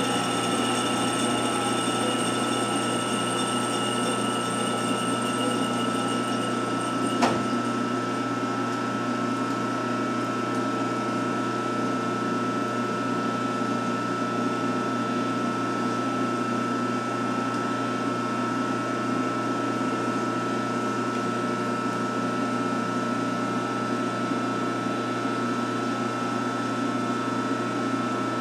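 1952 Wade 7 turret lathe running steadily with a mechanical hum. About seven seconds in there is a single sharp click and a higher whine stops.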